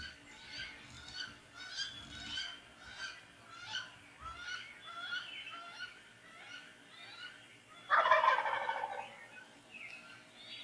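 A wild turkey tom gobbles once, loud and rattling, about eight seconds in. Before it, small songbirds sing a string of repeated chirping notes.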